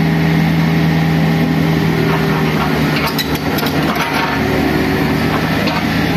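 An engine running steadily, with a few sharp clicks about three seconds in.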